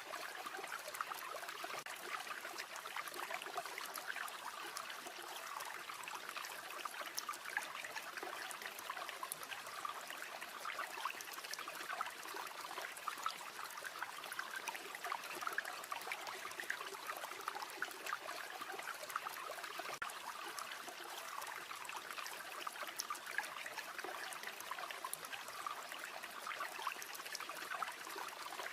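A river or stream flowing steadily with a trickling, burbling sound, dotted throughout with many small sharp pops and clicks.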